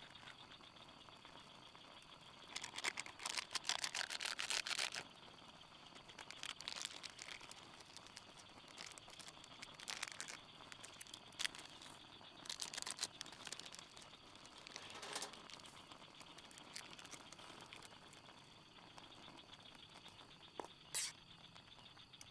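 Repeated bursts of rustling and crinkling, as of something being handled, the longest lasting about two seconds a few seconds in. A faint, steady high-pitched hum runs underneath.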